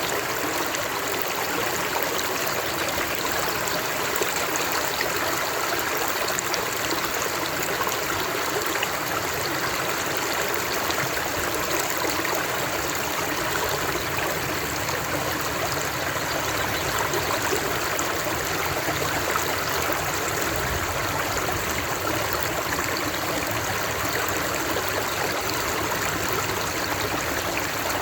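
Flowing water of a stream, a steady rushing and babbling with no breaks.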